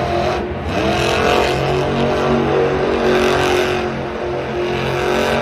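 Monster truck engine running and revving, loud and steady.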